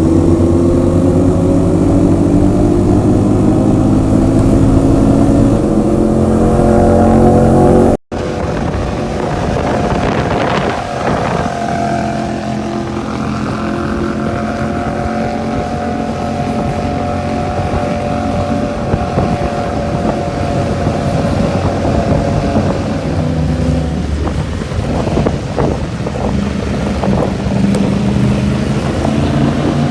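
Motorcycle engine and exhaust running under way, with wind noise on the microphone. The engine pitch climbs steadily as the bike accelerates, the sound cuts off abruptly about eight seconds in, then the engine carries on at a more even pitch, easing up and down.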